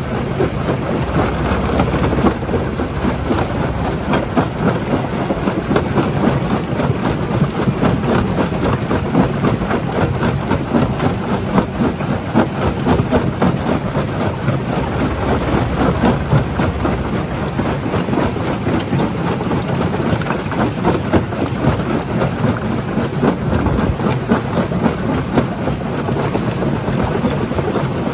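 Rock crusher at work: a continuous, dense clatter and crunch of stone being broken and tumbling, over the low steady running of the machinery.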